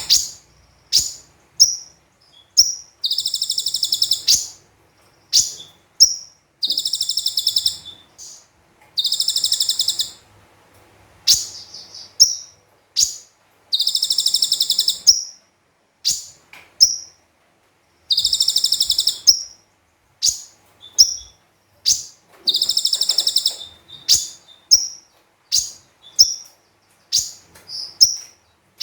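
Konin, a sunbird, singing loudly in fast bursts. Rattling high trills about a second long alternate with short, sharp high chirps and upward flicks, over and over.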